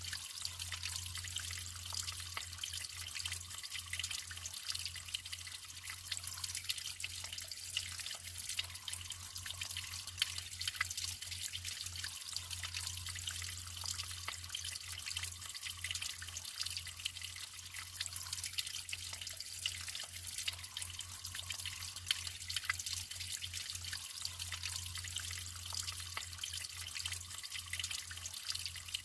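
Natural running water trickling steadily, with many small drips and splashes.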